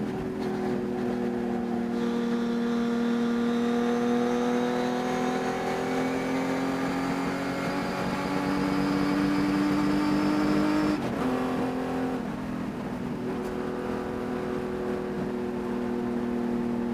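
Race car engine pulling under power, its pitch climbing slowly for about nine seconds, then dropping sharply about eleven seconds in before holding steady. The owner says this engine had a high-RPM miss that can be heard during the race.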